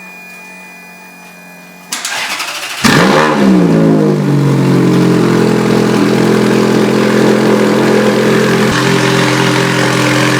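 Ferrari F430's V8 cold-starting through a straight-piped, catless exhaust: the starter cranks about two seconds in, the engine catches a second later with a quick flare in revs, then settles into a loud, steady idle.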